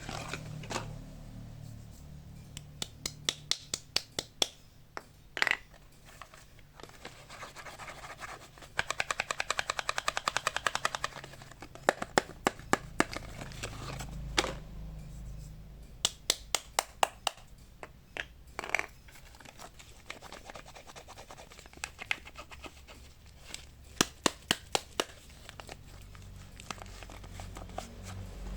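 Hands opening and handling packaged soap bars: sharp taps and clicks in quick clusters, with some scratching and crinkling of the wrapping. About nine seconds in comes a fast, even run of taps lasting about two seconds.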